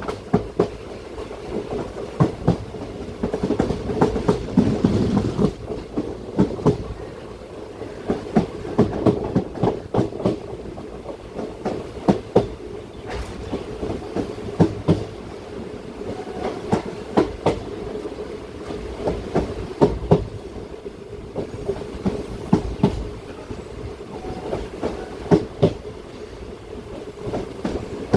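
Passenger express train heard from on board: the coach's wheels clack over rail joints in irregular pairs and clusters over a steady rolling rumble.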